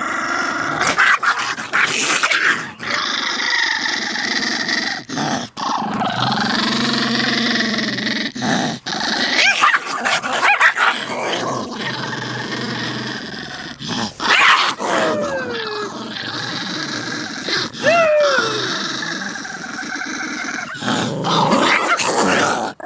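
Dogs fighting, growling and snarling almost without pause, with a few short yelps or whines that drop in pitch.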